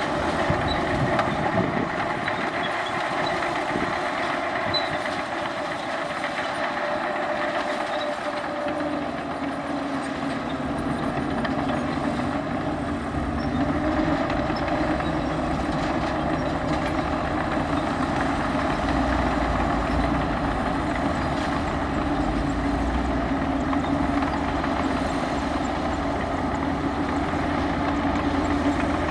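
Heavy diesel engine of earthmoving machinery running steadily. About nine seconds in the engine note changes, with a deeper, stronger rumble after.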